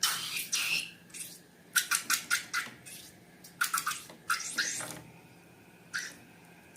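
Slime being squeezed and worked by hand, giving short, sticky squelches and crackling clicks: a quick run of about six clicks a little under two seconds in, a few wetter squelches around four to five seconds, and one more near the end.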